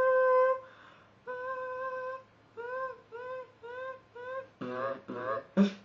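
A beatboxer's vocal robot noise, a hummed, machine-like tone made with the lips and the back of the throat: two held notes on one pitch, then five short notes at the same pitch. Near the end a rougher, buzzier sound follows, ending in a short loud burst.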